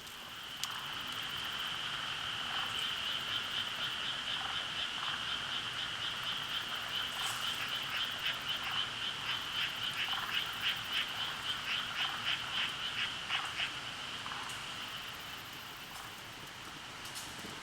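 A frog calling: a steady high trill that breaks into a run of quick pulses, about three or four a second, and fades near the end.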